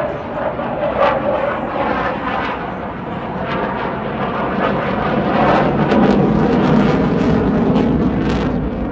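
Eurofighter Typhoon's twin EJ200 jet engines roaring loudly as the jet flies its display, swelling to their loudest about six to eight seconds in.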